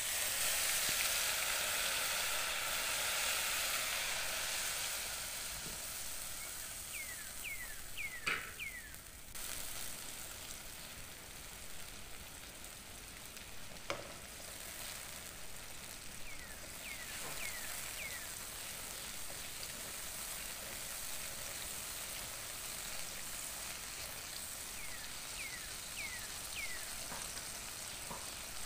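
Blended bird's eye chilli, shallot and garlic paste sizzling in hot oil in a frying pan: loudest just as the paste goes in, then a steady sizzle as it is stirred and fried down until the oil separates. A couple of sharp knocks stand out, one about 8 seconds in and one about 14 seconds in.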